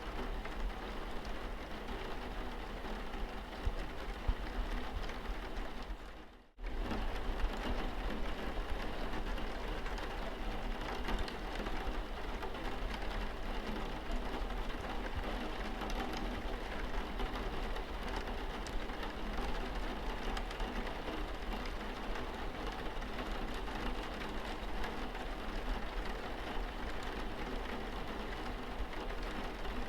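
Rain falling steadily on a car's windscreen. About six seconds in it fades out briefly and then cuts straight back in.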